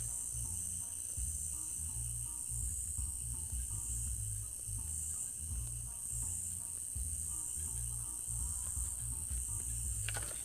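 Crickets chirping in a steady, high continuous trill over a low, uneven rumble, with faint short notes in the background.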